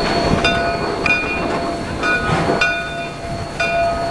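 Narrow-gauge heritage train running: a steady rumble with a continuous tone, and short high-pitched ringing tones that come and go several times.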